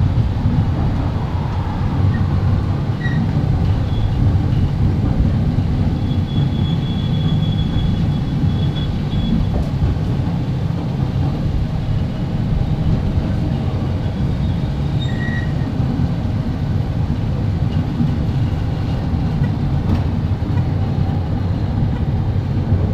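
Narrow-gauge farm passenger train rolling along the track, a steady low rumble of the wheels and cars on the rails, heard from on top of the caboose.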